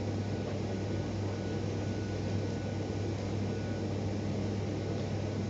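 Steady low mechanical hum with an even hiss over it, unchanging, with no distinct knocks or events.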